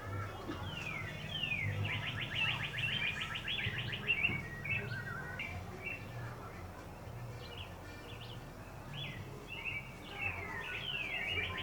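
A songbird singing: a song made of quick downward-sweeping notes that run into a rapid trill, heard about a second in and again near the end, with scattered chirps between.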